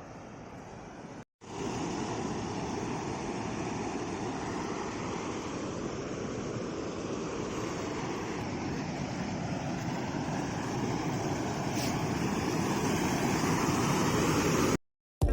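Steady rush of falling and flowing river water at a waterfall, growing gradually louder. A brief cut breaks it about a second in, and another comes just before the end.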